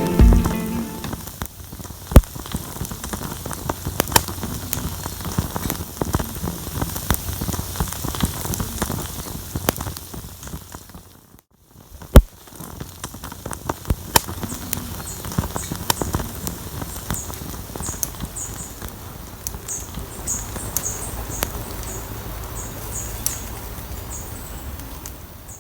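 Wood campfire crackling, with irregular small pops and a sharper pop about two seconds in and another about twelve seconds in. The sound drops out briefly near the middle. In the second half, short high chirps repeat over the crackle.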